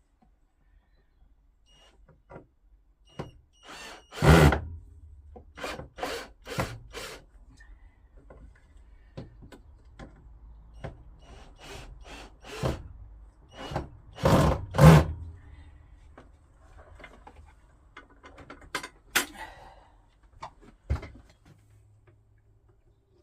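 Irregular knocks and clicks of wood and metal being handled on a workbench, with two louder thumps, one about four seconds in and another around fourteen to fifteen seconds in.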